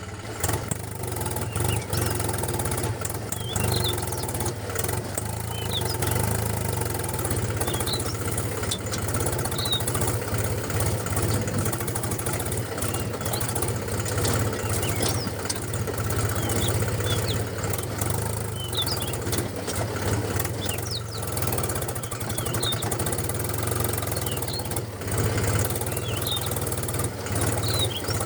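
Small engine of a homemade mini tractor running steadily at an even speed, with a rough ticking beat, and short high chirps now and then.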